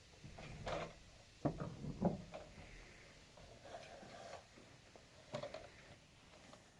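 A few faint, scattered knocks and bumps, the clearest about a second and a half in, again at two seconds, and once more past the five-second mark.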